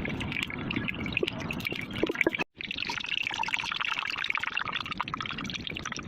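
Liquid pouring and trickling with a dense, crackly texture. It breaks off abruptly for a moment about two and a half seconds in, then resumes.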